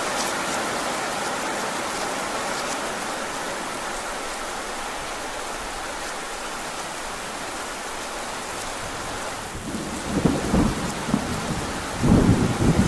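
Heavy rain falling steadily, then rolling thunder rumbling in about three seconds before the end.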